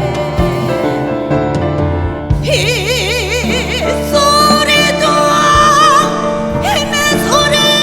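Korean traditional (gugak) ensemble music in a passage between sung lines: a slow melody with wide, wavering vibrato over held accompaniment, with a few low drum strokes.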